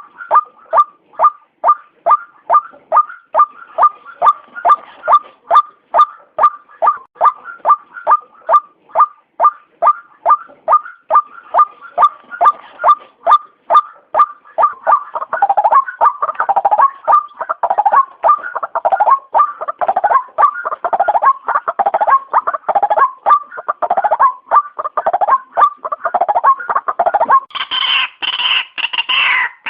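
White-breasted waterhen (ruak-ruak) calling: a long, even series of short, clipped notes, a little over two a second. About halfway through the calls grow denser and overlap into a harsher, busier stretch, and near the end a higher, louder call joins in.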